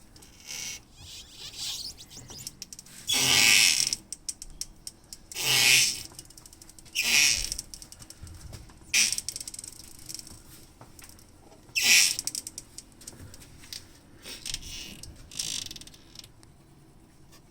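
Squeaking and creaking from a Morgan 3 Wheeler, coming in irregular bursts a second or more apart, the longest lasting about a second.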